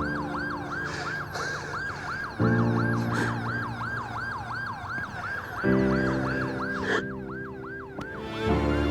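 Ambulance siren wailing in a fast rising-and-falling yelp, about three cycles a second, over sustained dramatic score chords that change every few seconds.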